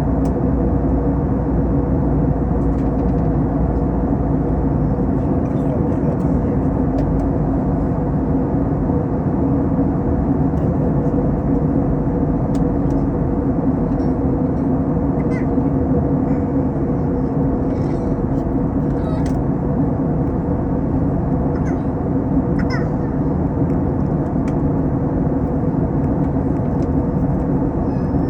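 Airbus A321 airliner in flight, heard from inside: a steady drone of engines and rushing air with an even low hum.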